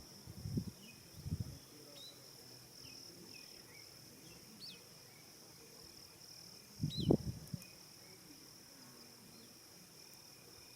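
Evening savannah ambience: a steady high-pitched insect trill, with a few short bird chirps over it. Brief low bumps come about half a second and a second and a half in, and a louder low rumble about seven seconds in.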